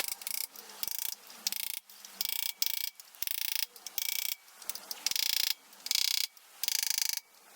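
Socket ratchet handle clicking in repeated back-strokes, about a dozen short rattling bursts at an even pace, as a nut is run down on a 164FML motorcycle engine.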